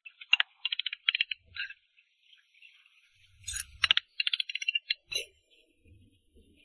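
Quick runs of light, sharp clicks and taps, with a couple of dull low knocks about halfway through.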